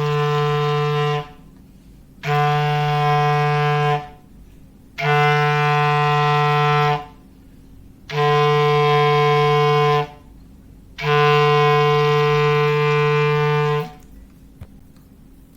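Foghorn sound effect: five long, steady blasts on one low pitch, each about two seconds long with short gaps between them, stopping about 14 seconds in.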